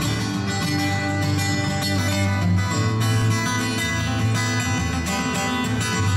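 Acoustic guitar strumming a steady instrumental passage in a bluegrass/country-style song, with no singing.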